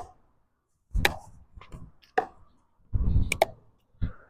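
Tennis balls being struck by rackets and bouncing on the court: a series of sharp knocks about a second apart, two of them in quick succession past the middle. Wind rumbles on the microphone around some of the hits.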